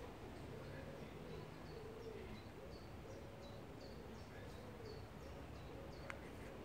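Faint bird calls: a low hooting call repeated over and over, with a higher short chirp repeating above it. A single soft click about six seconds in.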